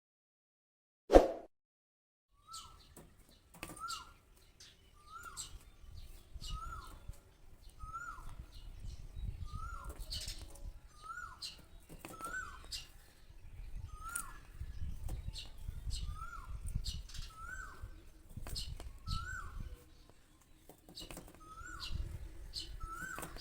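Small bird giving a short, hooked chirp about once a second, with sharp taps and low fluttering thumps around the calls. A single loud click comes about a second in, before the calling starts.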